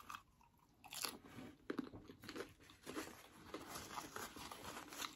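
Close-up crunching and chewing of a crunchy hard-shell beef taco: a sharp crack about a second in, then a run of crisp crackles as the shell is chewed.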